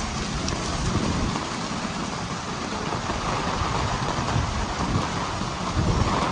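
Heavy rain falling steadily, a dense even hiss, with low rumbles swelling underneath a few times.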